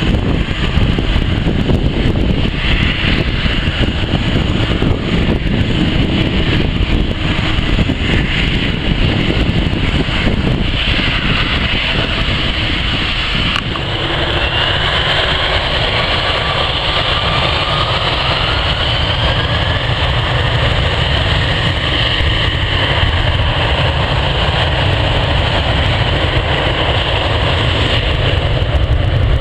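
Jet airliner engines running, a loud steady rumble. About halfway through the sound changes abruptly, and a thin engine whine then slowly rises in pitch.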